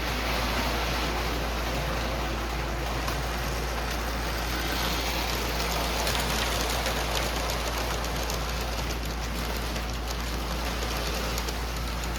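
Lionel O gauge model train running on a postwar three-rail layout: a steady rumble and clatter of wheels on track, with a constant low electrical hum.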